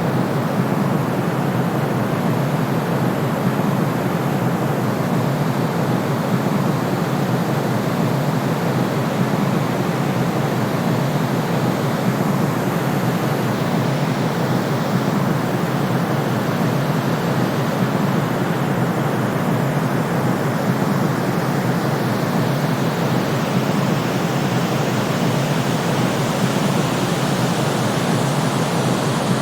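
Steady, unbroken sleep-aid noise of the kind sold as white noise for soothing babies, deep in tone, with most of its weight low and less hiss up top. It does not change in level or character.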